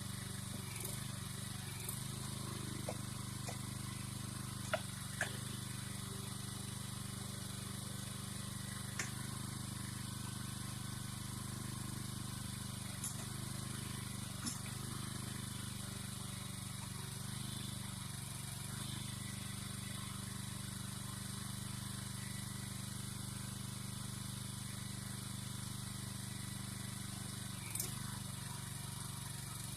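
An engine running at a steady speed, with a few short sharp knocks and clicks scattered over it.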